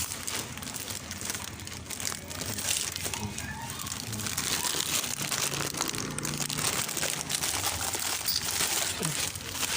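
Continuous crinkling and rustling made up of many small crackles, with faint voices in the background.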